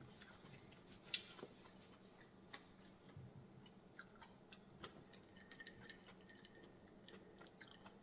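Faint eating sounds: chewing with scattered small wet mouth clicks and smacks, one sharper click about a second in.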